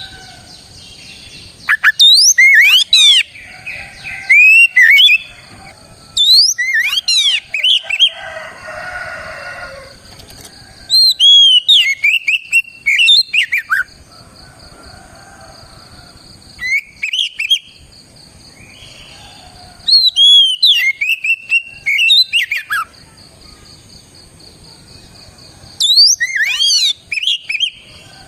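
Oriental magpie-robin (kacer) singing loud, clear whistled song phrases with sweeping rising and falling notes. The phrases come in bursts of a second or two, about seven times, with pauses of a few seconds between.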